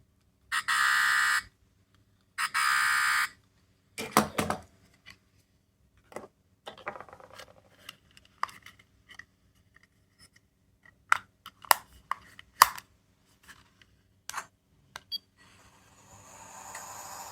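Small electronic sound-effect capsule toy giving two short harsh buzzer tones about two seconds apart, followed by a run of plastic clicks and knocks from handling it, and a steady hiss near the end.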